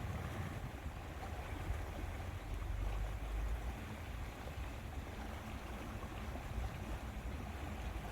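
Lakeside ambience: water lapping under an uneven low rumble of wind on the microphone.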